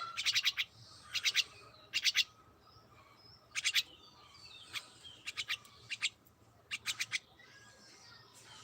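Pet birds chirping: short clusters of quick, sharp, high chirps about every second, with softer twittering between.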